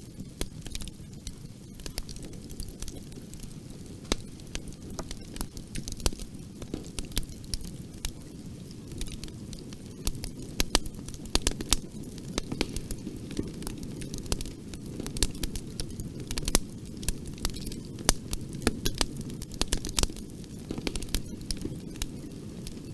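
Wood fire burning in a fireplace: a steady low rumble of flames with frequent sharp crackles and pops, which come thicker from about halfway through.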